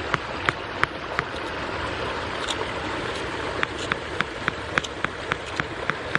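Running water splashing steadily, with sharp drips landing about three times a second.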